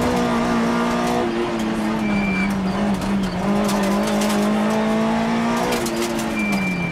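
Rally car's engine heard from inside the cockpit, driven hard on a stage at a fairly steady pitch, with a brief dip about two and a half seconds in and a fall in revs near the end as the driver lifts. A short high-pitched tone sounds twice, and a few sharp clicks and knocks come through the cabin.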